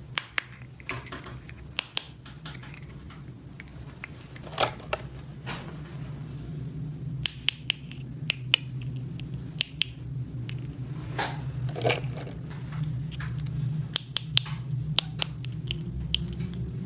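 Small hard plastic toy pieces clicking and tapping as they are handled, in irregular single clicks, over a steady low hum.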